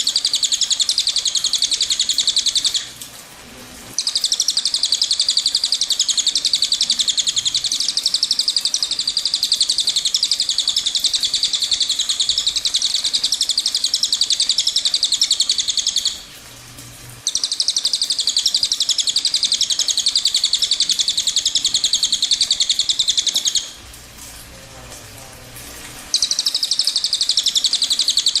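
Cililin bird singing its long rolling song: a very fast, high trill held for many seconds at a time, stopping briefly three times: about three seconds in, about sixteen seconds in, and for two seconds near the end.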